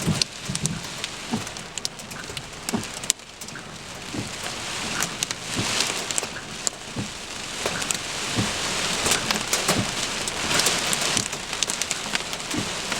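Heavy rain pelting down, a steady hiss that grows heavier after about four seconds, with many sharp taps and knocks of drops or stones hitting a surface.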